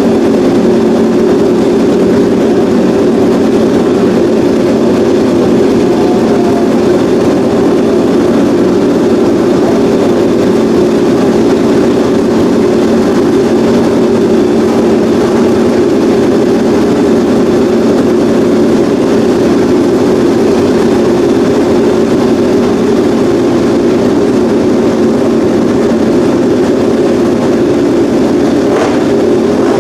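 Honda RC213V MotoGP bike's V4 engine running loud and steady at a held engine speed, without revving.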